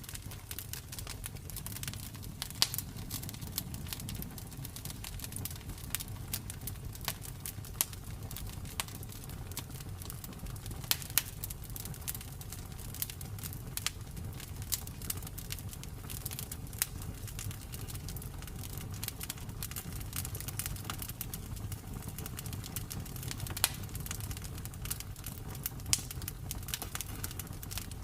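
Campfire crackling: a constant irregular patter of small snaps with a few louder pops, over a low steady rumble.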